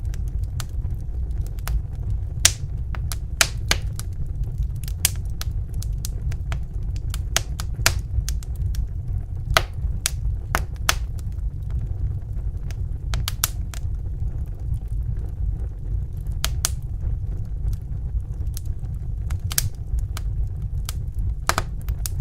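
Wood fire crackling in a fireplace: sharp, irregular pops and snaps over a steady low rumble of burning.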